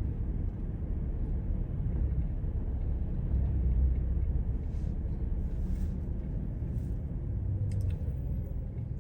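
Low, steady rumble of a car heard from inside the cabin: engine and road noise while driving in traffic.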